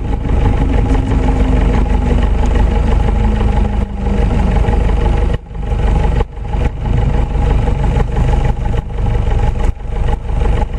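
Light airplane's engine droning steadily as heard inside the cockpit, with a few slow shifts in pitch and several brief dropouts in the sound.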